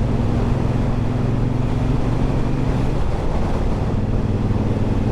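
Triumph Bonneville Bobber's 1200 cc parallel-twin engine running at a steady cruise while riding, under the rush of wind and road noise.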